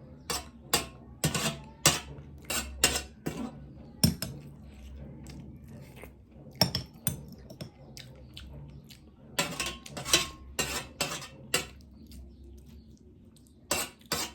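Eating noises from a meal at a plate: a string of sharp clicks and clinks in irregular clusters, with a couple of quieter stretches in between.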